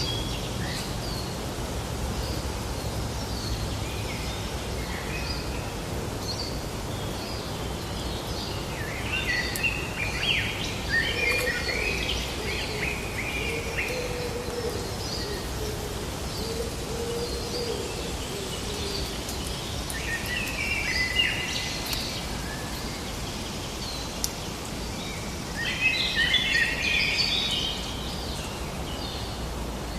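Several birds chirping and singing in bursts, the busiest phrases about a third of the way in, around two-thirds of the way and near the end, over a steady background hiss of outdoor ambience.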